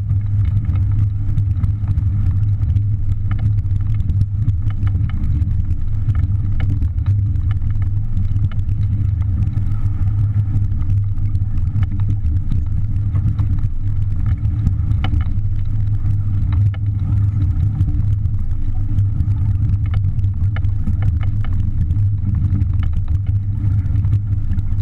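Heavy wind buffeting the microphone in a strong breeze aboard a small sailboat: a loud, steady low rumble that cuts in and out abruptly.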